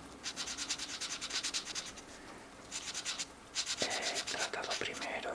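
Felt-tip marker tips scratching across colouring-book paper in quick back-and-forth colouring strokes, in three spells broken by short pauses.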